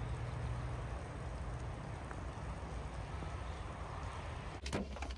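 Steady rain falling on the trees, with a low rumble underneath. A few sharp knocks come near the end.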